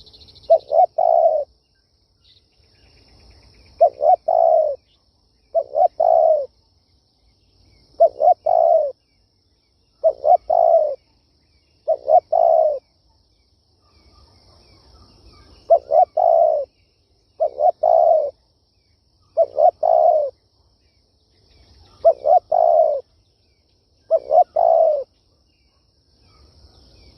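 Spotted dove cooing over and over: each phrase is a couple of quick notes ending in a longer coo, repeated about every two seconds. This is the territorial call used to lure wild doves.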